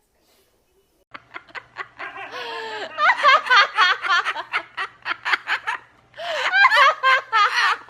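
Rapid, rhythmic laughter in quick repeated bursts. It starts about a second in, grows much louder around three seconds in, breaks off briefly near six seconds, then carries on.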